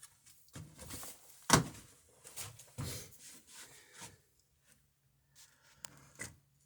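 Wood being handled: scraping and rubbing swishes, with one sharp wooden knock about a second and a half in, then a few light clicks near the end.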